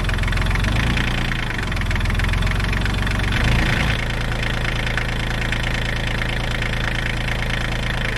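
Small diesel engine of a Bobcat CT122 compact tractor idling steadily, with a brief change in its note about three and a half seconds in.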